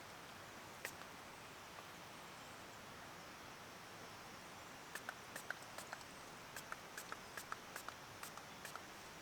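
Quiet background hiss with a series of light, sharp clicks and ticks, a couple near the start and then a steady run of them, a few a second, through the second half.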